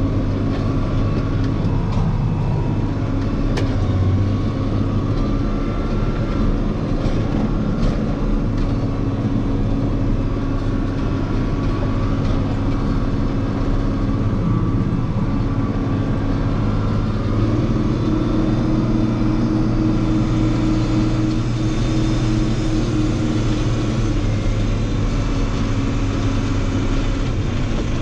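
Diesel engine of heavy farm harvest machinery running steadily, with a low, even drone; a slightly higher tone strengthens for a few seconds past the middle.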